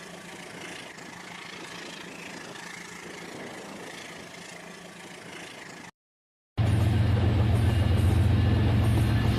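Battery-powered Rail King toy train running on its track, a steady motor whir. About six seconds in the sound cuts out for a moment and comes back much louder, with a strong steady hum.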